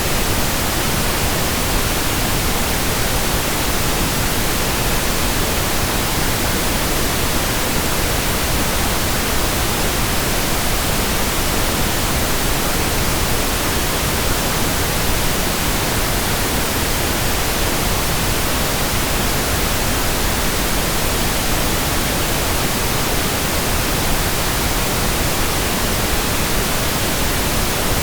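Steady, unchanging pink noise: an even hiss across the whole range, with more weight in the lows than white noise.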